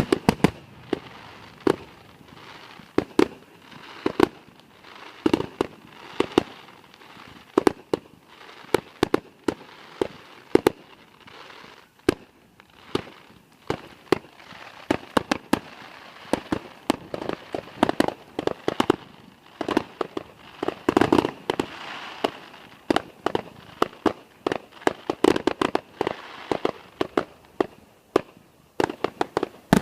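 Fireworks display going off: dozens of sharp bangs and pops coming in quick, uneven clusters.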